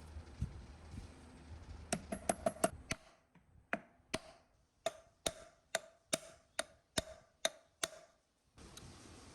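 Sharp metallic taps, first a quick run of five or so, then a steady series of about two a second, each with a short ring.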